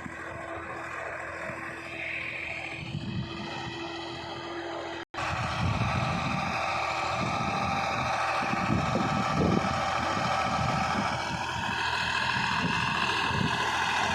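Tractor engine running steadily while pulling a cultivator through a field, with wind rumbling on the microphone. There is a brief cut about five seconds in, after which it is louder.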